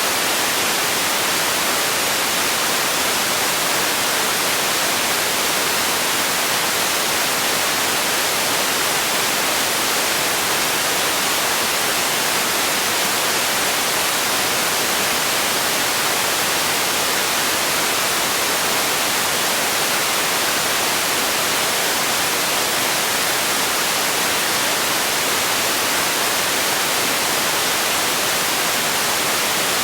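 Generated sleep noise: a steady, unbroken hiss, strongest in the treble and thin in the bass, with no change in level.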